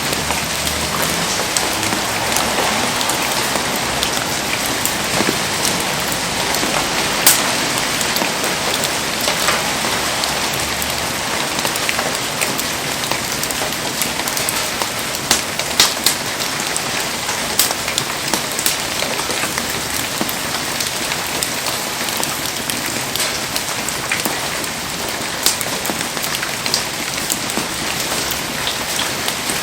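Heavy rain falling steadily, a dense even hiss, with scattered sharp ticks through it.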